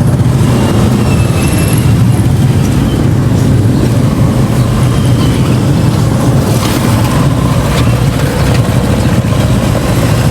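A motor vehicle running at a steady pace: a loud, unbroken low engine and road rumble.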